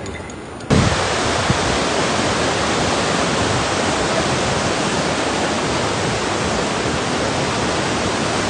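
Rushing floodwater: a loud, steady rush that starts abruptly less than a second in.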